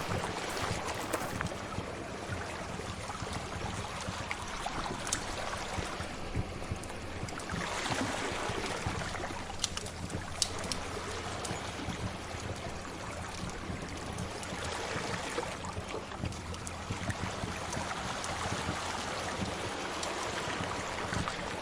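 Sea waves washing in with a couple of slow surges, mixed with scattered sharp pops and crackles from a fire.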